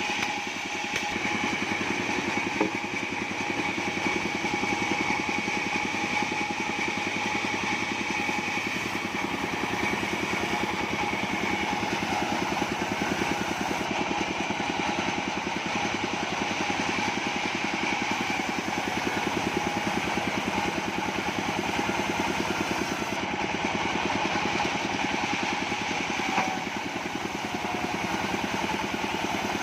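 Engine-driven bandsaw sawmill running steadily, with the rapid even beat of its engine under a steady high whine.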